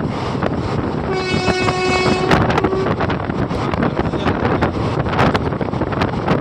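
A horn sounds one steady note for about two seconds, starting about a second in, over heavy wind buffeting on the microphone.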